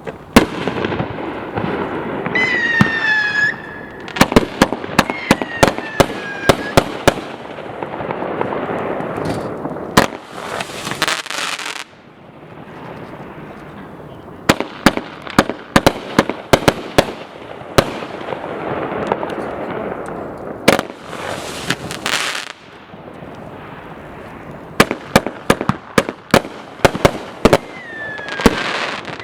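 A 500 g consumer fireworks cake firing a long barrage: many sharp bangs and crackles over a steady hiss, with a few whistles that fall in pitch. It eases off briefly twice before firing again.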